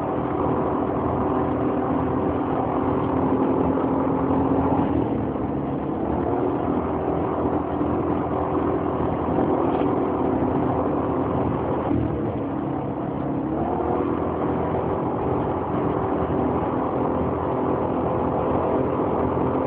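Motorcycle engine running steadily, its speed dipping and climbing back twice. It is being run to show an abnormal noise.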